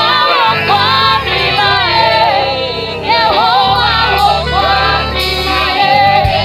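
Live gospel worship music: a choir and singers with several voices, over a band with steady bass.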